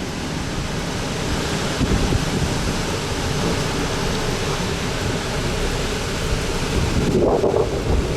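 Strong storm wind rushing and buffeting the microphone in a steady noise.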